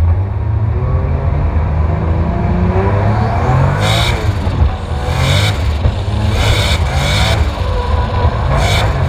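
Drift car's engine, heard onboard, revving and pulling away, its pitch rising and falling with the throttle. From about four seconds in, several short bursts of harsher, high-pitched noise cut in over the engine.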